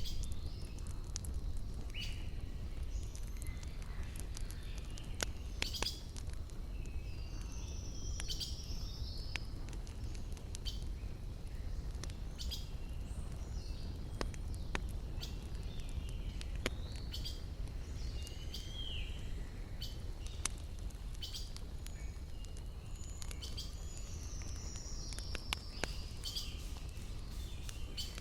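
Wood fire crackling with scattered sharp pops, over a steady low rumble, while birds call throughout with short chirps and swooping whistles.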